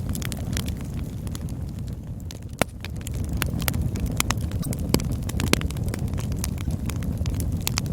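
Campfire burning, with a steady low rumble of flames under frequent crackles and snapping pops; one sharper pop stands out about two and a half seconds in.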